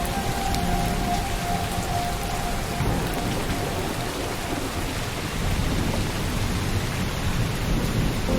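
Steady rainfall with a low rumble of thunder underneath.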